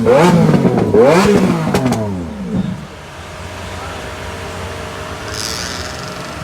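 Car engine revved in quick blips, its pitch sweeping up and falling back two or three times, then settling to a quieter steady running sound. A short hiss comes near the end.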